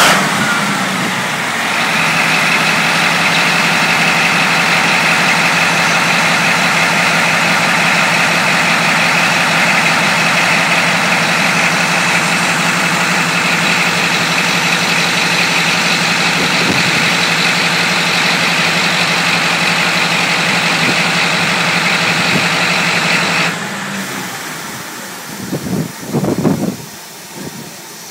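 Cat 789C haul truck's 3516B 16-cylinder quad-turbocharged diesel engine falling back from a rev to a steady idle. About 23 seconds in its sound drops off sharply and winds down, as if the engine is shut off, and a few dull thumps follow near the end.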